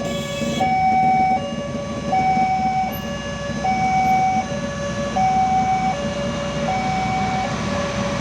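Railway level-crossing warning alarm sounding a two-tone electronic signal, a higher and a lower note alternating about every three-quarters of a second, over a steady low rumble.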